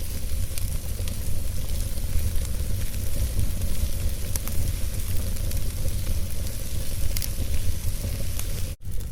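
Wood fire burning in a fireplace: an even hiss over a low rumble, with scattered sharp crackles and pops from the logs. The sound cuts out for an instant near the end.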